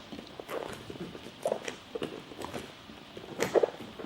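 Hands and feet patting on the floor in small, uneven steps during a crab walk, a string of soft irregular thuds, the strongest a little past three seconds in.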